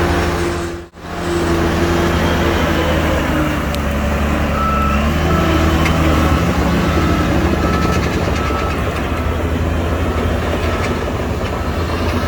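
Diesel engine of heavy earthmoving machinery running steadily, cutting out for an instant about a second in. From about four seconds in, a reversing alarm beeps repeatedly for several seconds.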